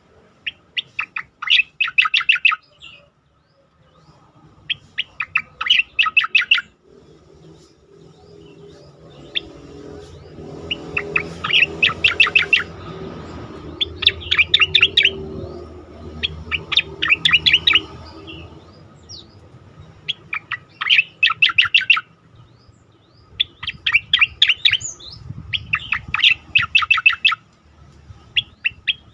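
Pied bushchat (cica koreng) singing its rapid-fire 'tembakan' song: about nine short bursts of quick, sharp, high notes, each burst one to two seconds long, repeating every few seconds over a faint low rumble.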